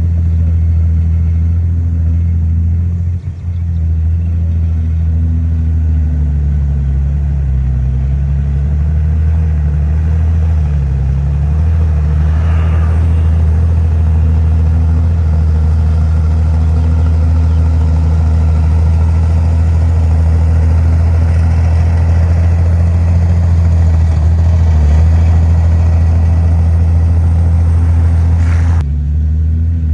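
Heavy diesel engine of earthmoving machinery running steadily under load, its pitch dipping and rising a little now and then. A brief higher-pitched noise comes in about twelve seconds in, and the sound changes abruptly near the end.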